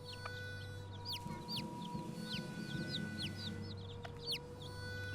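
Feral chicken chicks peeping, a rapid, irregular series of high calls that fall in pitch. These are the distress peeps of chicks separated from their mother. Soft background music with held notes plays underneath.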